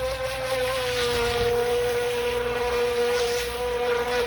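Haiboxing X03 RC speedboat's electric motor running flat out with a steady high whine that sags slightly about a second in, over the hiss of the hull skimming the water.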